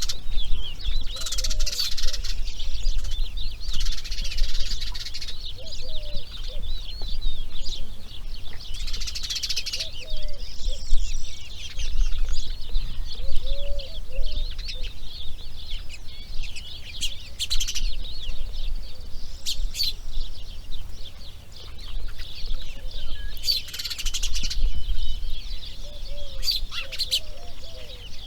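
Many wild birds chirping and calling at once in a dense, continuous chorus, with a few louder, harsher bursts. A steady low rumble runs underneath.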